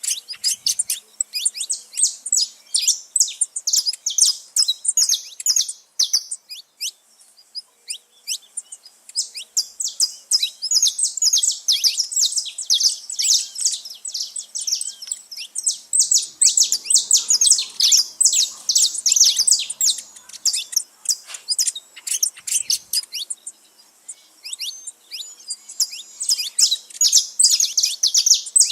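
A flock of saffron finches singing and chirping together, many birds at once in a dense run of rapid high-pitched notes, thinning out briefly twice.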